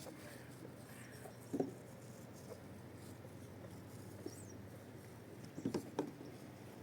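A few short, soft knocks over a faint steady background: one about a second and a half in, then a quick cluster of three or four near the end.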